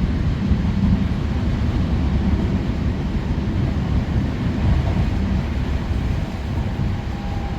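Passenger train running, a steady low rumble of wheels and motors heard from inside the carriage, with a faint whine coming in near the end.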